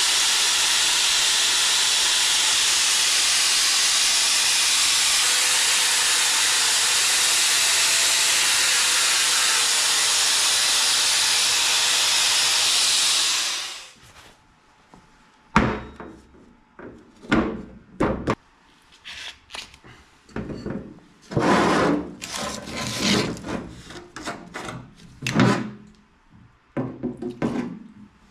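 A loud, steady hiss that cuts off suddenly about halfway through. It is followed by irregular scraping and rubbing strokes as greasy, oily scrap steel is scrubbed clean before welding.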